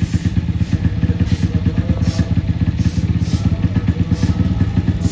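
Motocross bike engine idling steadily, a fast even pulsing beat.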